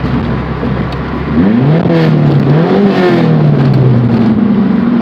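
Straight-piped GM 2.2L four-cylinder exhaust with no muffler, running low and steady, then louder about a second and a half in as the throttle opens. The revs climb, dip, climb again, then ease down and settle.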